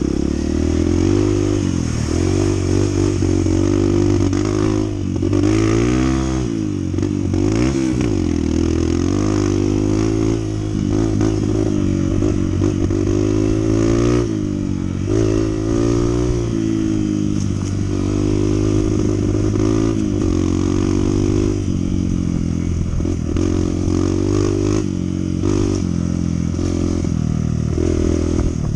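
Honda CT125's single-cylinder four-stroke engine running while being ridden, its pitch rising and falling again and again as the throttle is opened and closed.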